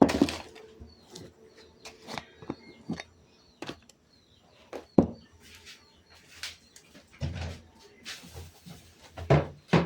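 Objects being handled: an irregular series of knocks, clacks and short scrapes, with sharp hits right at the start, about halfway through, and twice near the end.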